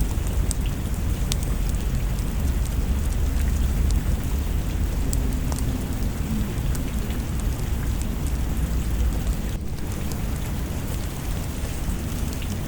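Steady rain with a deep, low rumble of distant thunder, and scattered sharp crackles from a wood fire.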